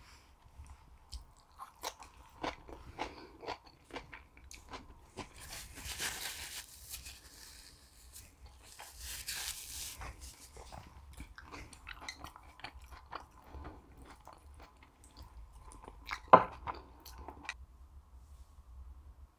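Close-up eating sounds: chewing with many small wet mouth clicks, and two short hissing sounds in the middle. A single sharp knock, the loudest sound, comes near the end, after which the chewing stops.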